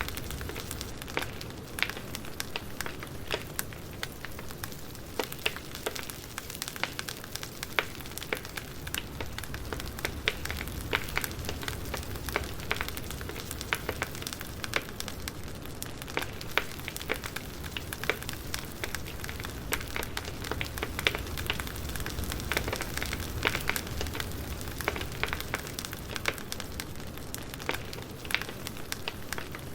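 A wood fire crackling, with a low steady rumble of flames and many irregular sharp pops and snaps of burning logs.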